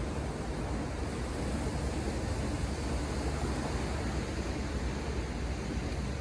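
Ocean surf washing ashore, heard as a steady, even rush with a low rumble underneath.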